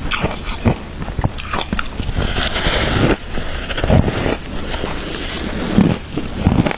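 Close-up chewing and biting of crunchy shaved ice: a quick run of sharp crunches, with a denser grinding crunch a little over two seconds in.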